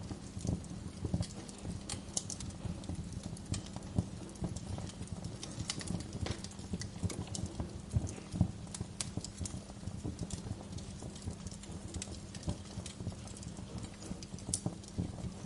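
Wood fire crackling and popping, with irregular sharp snaps of burning logs several times a second over a steady low rumble.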